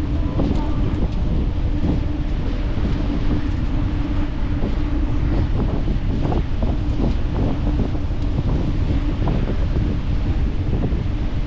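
Wind buffeting the microphone of a camera carried on a moving bicycle: a steady, dense rush of noise, with a constant low hum underneath and scattered small ticks.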